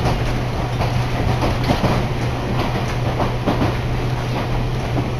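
Running noise heard inside a moving electric commuter train: a steady low hum with irregular knocks and rattles from the wheels on the track.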